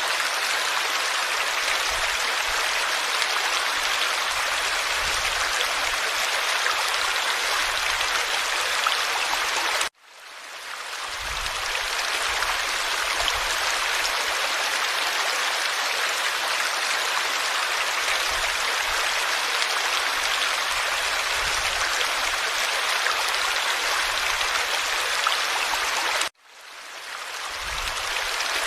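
Forest stream running steadily over its bed. The water sound cuts out abruptly twice, about ten seconds in and again near the end, and each time fades back in over about a second, as at edit joins in the recording.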